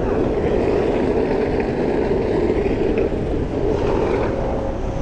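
Steady rushing wind and road noise on the microphone of a camera riding along on a moving bicycle.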